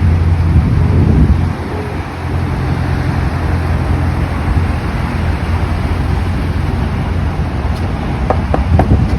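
A car engine running steadily close by, louder for the first second and a half and then quieter, with wind buffeting the microphone.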